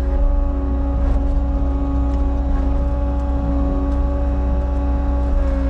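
Cat 279 skid steer's diesel engine running steadily under work, a constant pitched drone over a heavy low rumble, with a few faint clicks.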